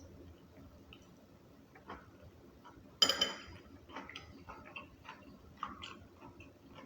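Close-up eating sounds: small irregular clicks and smacks of chewing a chicken sandwich, with one louder sharp crackle about three seconds in.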